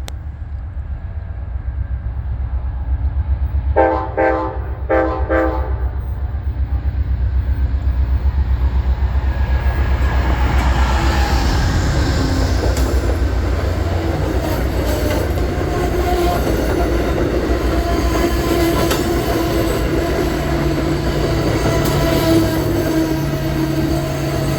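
Amtrak GE P42DC diesel locomotive departing: a low engine rumble, then two short horn honks about four and five seconds in. After that the train comes by louder and louder, with steady wheel-on-rail rolling noise and clicks over the rail joints.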